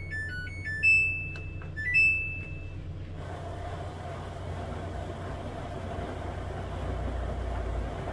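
Washing machine control panel beeping: a short stepping beep melody, then two button presses about a second apart, each a click with a longer high beep, over a steady low hum that carries on after the beeps stop.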